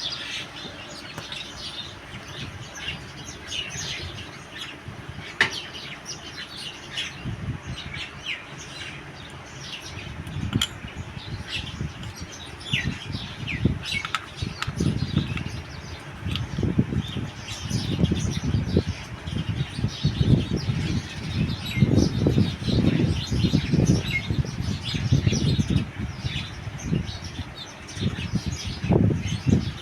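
Small birds chirping over and over with short high calls. From about ten seconds in, a low rustling, fluttering noise joins them and becomes the loudest sound.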